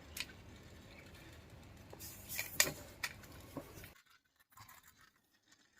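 Small plastic toy jeep pushed along a surface: faint scraping of its wheels with a few light clicks, the loudest between two and three seconds in, stopping about four seconds in.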